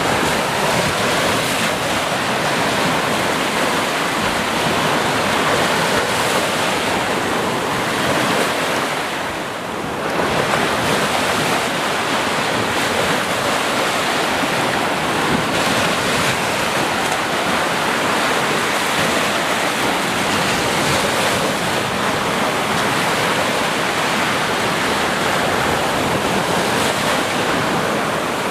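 Sea waves breaking and washing in continuously, a steady surf with a brief lull about ten seconds in.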